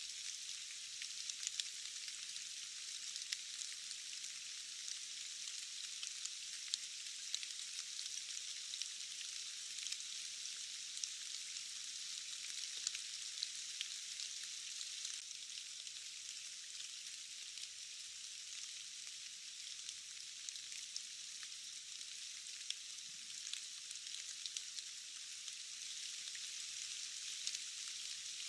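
Steady rain, a dense even hiss with scattered sharper ticks of single drops and no low rumble.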